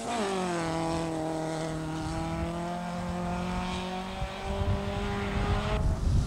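Rally car engine pulling hard as the car drives away along a gravel stage. Its note drops sharply at the start, then holds steady and rises slightly, and cuts off abruptly near the end.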